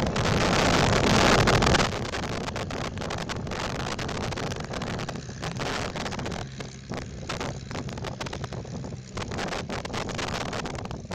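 The Rolls-Royce Merlin engine of a Hispano HA-1112 Buchon running in flight, loudest for the first two seconds and then steadier and lower, with wind buffeting the microphone.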